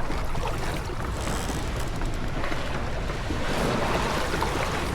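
Wind buffeting the microphone and water rushing along the hull of a J24 sailboat under sail, the water noise swelling a few seconds in.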